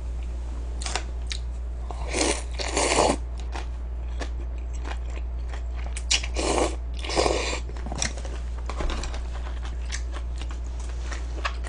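Close-up crunching and chewing of crispy fried chicken, in short bursts about two seconds in and again around six and seven seconds in, over a steady low hum.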